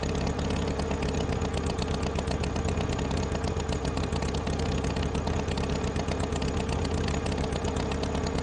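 Tractor engine idling steadily, with a fast even chugging throughout.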